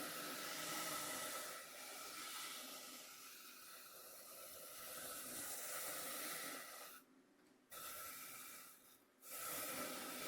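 Coarse cornmeal softly scraping across a bamboo cutting board: a continuous gritty hiss that stops briefly about seven seconds in and again about nine seconds in.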